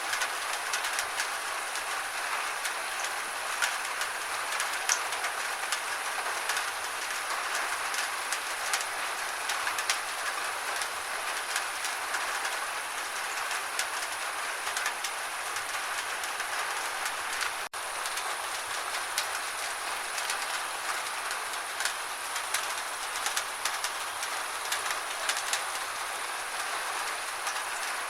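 Steady gentle rain: an even hiss dotted with many small, irregular drop ticks, broken by a momentary gap about eighteen seconds in.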